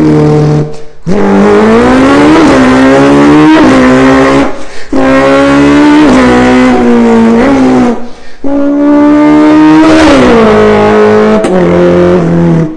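Revving car-engine sound: a loud pitched drone that climbs and falls in pitch, in three long passes separated by brief silent gaps.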